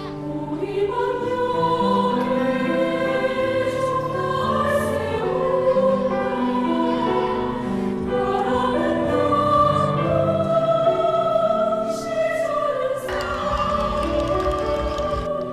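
Background music: choral singing, several voices holding sustained notes together.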